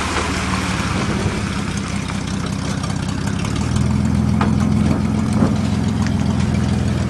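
1987 Dodge Dakota's V6 engine idling steadily, a little louder from about halfway, sounding like a healthy runner.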